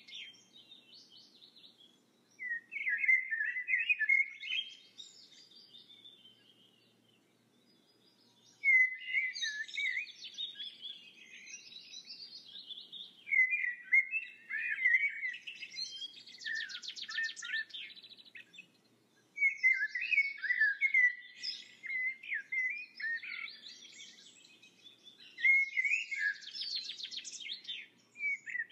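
Birdsong: quick chirping, warbling phrases a few seconds long, with short pauses between them.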